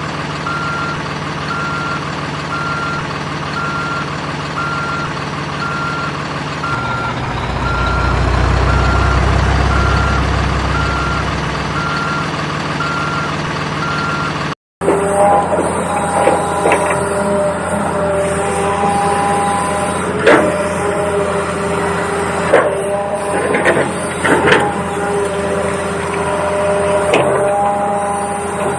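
Electronic engine and reversing-beep sound effects from an RC toy construction vehicle: a beep repeating about one and a half times a second over a low engine drone that swells in the middle. After a sudden cut about halfway through, a steadier engine hum with scattered clicks and knocks.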